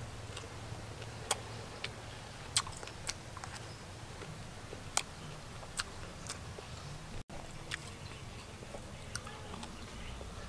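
Eating sounds of someone chewing a cow intestine salad: mouth sounds with a dozen or so sharp, separate clicks, over a steady low hum.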